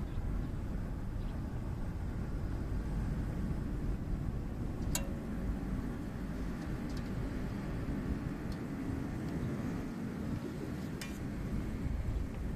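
Hardwood campfire burning in a fire stand, with two sharp crackling pops about five and eleven seconds in and a few fainter ticks, over a steady low rumble.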